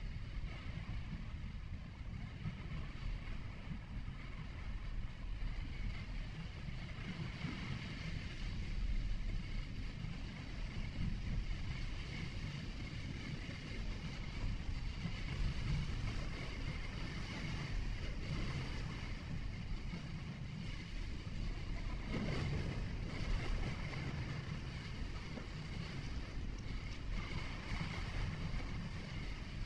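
Car driving, heard from inside the cabin: a steady low rumble of engine and tyres on the road, with a fainter hiss of wind and road noise over it.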